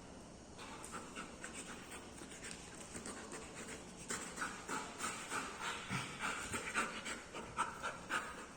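Dog panting rapidly in quick, even breaths, getting louder about halfway through.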